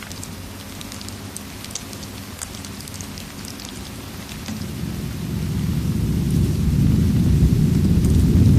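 Steady rain with scattered sharp crackles of a fireplace, then a low rumble of thunder that builds from about halfway and grows loud near the end.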